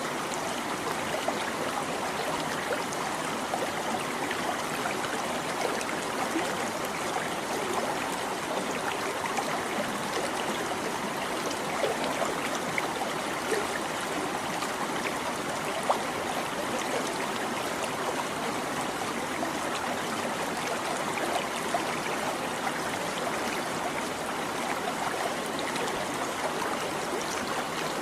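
A small stream babbling and trickling steadily over rocks, with small splashes scattered through the flow.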